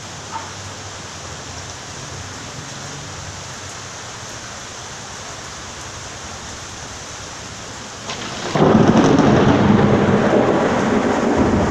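Steady rain falling, then about eight and a half seconds in a sudden loud crack of thunder that keeps rumbling.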